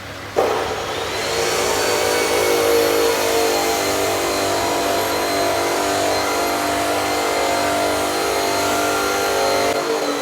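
An electric power tool switching on about half a second in and spinning up with a high whine, then running steadily at speed.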